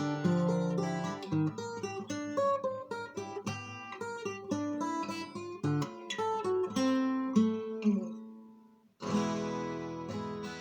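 12-string acoustic guitar from the Lunacharsky factory being played: a run of picked notes and chords, the last one left to ring and die away about eight seconds in, then a fresh chord struck and ringing.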